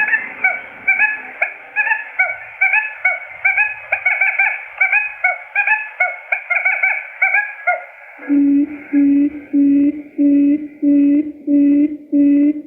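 Quail lure calls: about eight seconds of rapid, high chirping notes in quick clusters, then a low hooting note repeated about twice a second. This is the kind of call played to draw wild quail into a trap.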